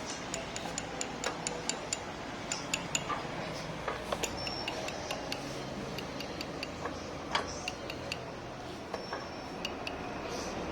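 Sharp metallic clicks from hand tools working on the scooter engine's parts. They come in an even run of about four a second at first, then scattered single ticks.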